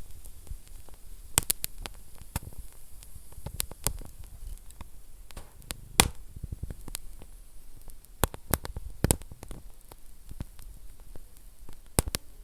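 Wood fire burning in a fireplace: a low steady rush of flame with irregular sharp crackles and pops, the loudest pop about six seconds in.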